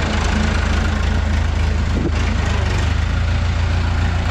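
Fiat 640 tractor's four-cylinder diesel engine running steadily at idle, a loud, even low-pitched sound.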